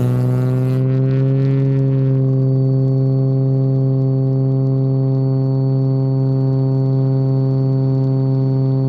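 Cessna Turbo 210's turbocharged six-cylinder engine and propeller running at takeoff power, a steady drone whose pitch climbs slightly in the first second or two and then holds. A faint, thin high tone sits over it from about two and a half seconds in.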